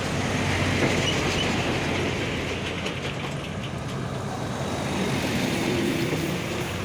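Fuel tanker truck's diesel engine running steadily at speed, with a constant rushing noise over the low engine hum.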